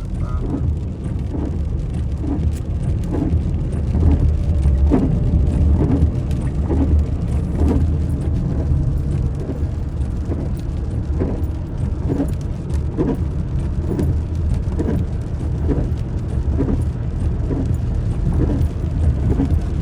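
Vehicle riding on a wet road in the rain: a steady low rumble, with a regular repeating sound about twice a second.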